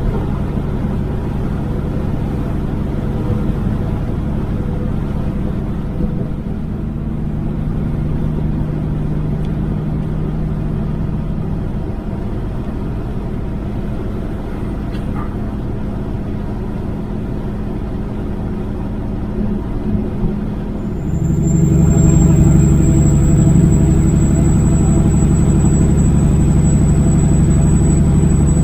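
Kenworth W900 semi truck's diesel engine running under way, with road noise. About 21 s in it gets louder and steadier, and a thin high whine joins it.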